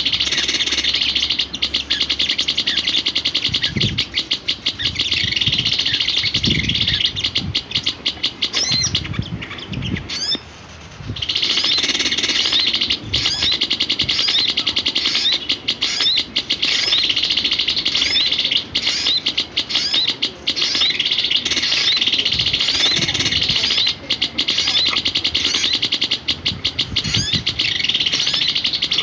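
Sirpu songbird chirping and twittering rapidly and without letup in high, quick notes, easing off briefly about ten seconds in; a few low thumps sound under it in the first half.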